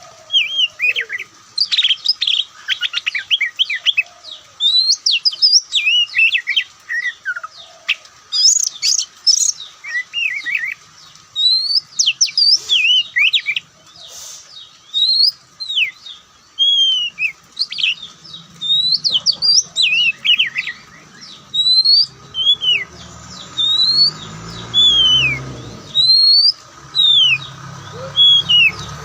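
Oriental magpie-robin (kacer) singing loud, clear whistles: a quick, varied run of notes in the first half, then separate rising-and-falling whistled phrases about once a second. A low rumble comes in during the last third.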